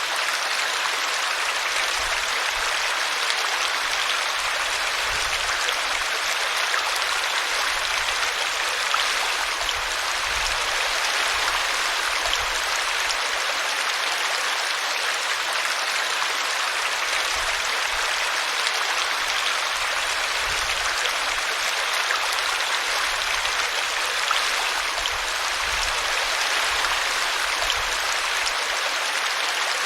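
A small brooklet running over a tree root: a steady rush of flowing water with irregular low gurgles.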